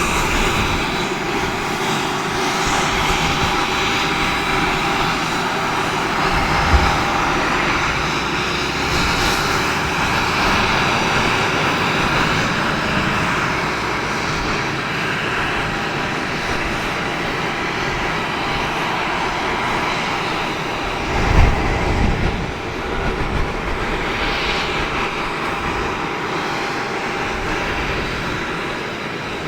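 Embraer EMB 120 Brasilia's Pratt & Whitney PW118 turboprop engine running on the ground, a steady noise with a thin high whine. Two short low thumps break in, about 7 s and about 21 s in, the second the loudest moment.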